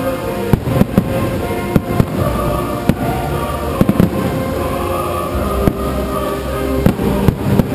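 Fireworks display: aerial shells bursting in a dozen or so sharp bangs at irregular intervals over a continuous low rumble, with music playing along.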